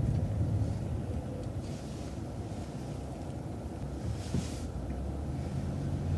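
City transit bus running, its low engine and road rumble heard from on board. The rumble eases in the middle and a brief hiss comes about four seconds in; near the end the engine note rises and steadies as the bus pulls ahead toward the turn.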